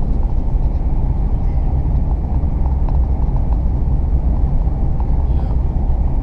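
Running noise heard inside a Hitachi Class 800 train carriage at speed: a steady low rumble of the wheels and running gear on the track.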